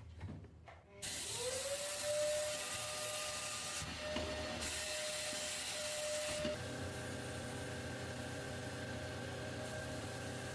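A power tool's motor starts about a second in, its whine rising as it spins up, then runs steadily with a hiss of abrasive work on metal. About two-thirds of the way through, the sound shifts to a lower, steady running tone.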